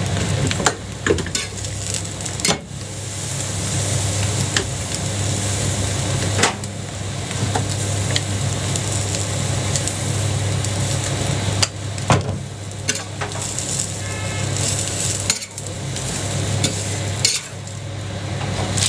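Jianbing batter and egg sizzling steadily on a hot griddle, with a steady low hum underneath and scattered sharp clicks and scrapes of a spatula on the griddle.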